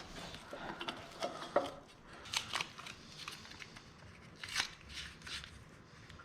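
Faint, scattered clicks and scrapes of a metal exhaust pipe piece being handled and set in position on a mini bike, with a few sharper taps about two and a half seconds in and again past four and a half seconds.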